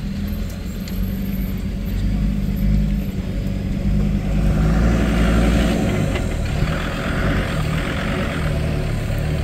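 Land Rover Discovery 2's engine running steadily as it drives slowly along a rutted grass track, heard from inside the cabin. A band of hiss joins in from about four and a half seconds in and fades about four seconds later.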